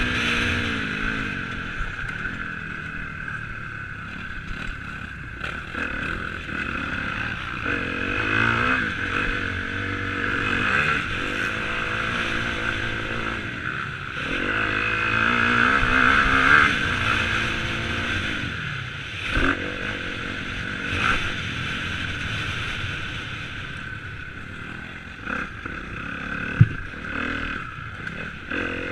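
Motocross bike engines revving up and down as they ride, the pitch rising and falling in repeated waves, with one sharp knock near the end.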